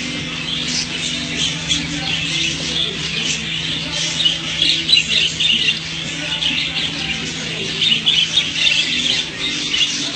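A flock of small caged birds chattering and squawking together, many short overlapping calls with no pause, over a steady low hum.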